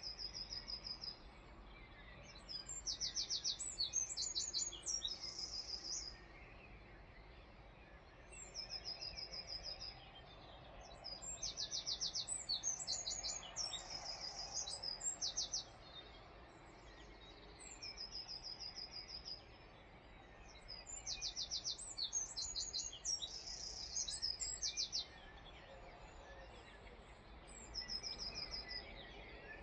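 A songbird singing the same high song over and over, about every nine seconds: a short high trill, then a quick run of sharp repeated notes and a jumbled ending, over a steady low background noise.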